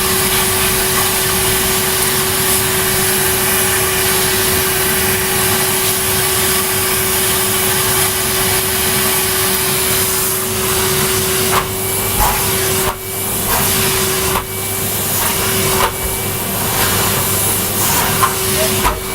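Vacuum cleaner running with a steady hum while hoovering up dog fur; its sound dips briefly a few times in the second half.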